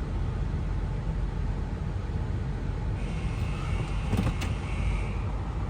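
Car wash stop buzzer: a steady high electronic tone that sounds for about two seconds, starting near the middle, over the low steady rumble of the car idling in the wash bay. The buzzer signals the driver to stop in position.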